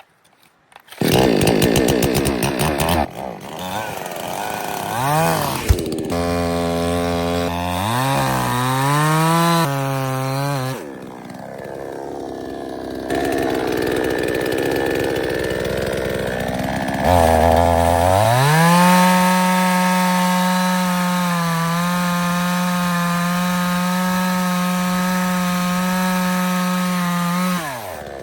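Small two-stroke engine, most likely a chainsaw, starting and being revved up and down several times. It then runs at steady high revs for about ten seconds and drops back near the end.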